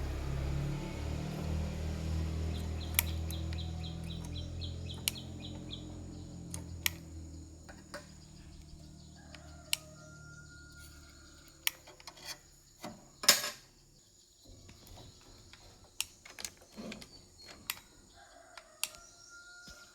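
A low hum that fades away over about the first ten seconds, with scattered sharp clicks and knocks throughout, and a few faint bird calls in the second half.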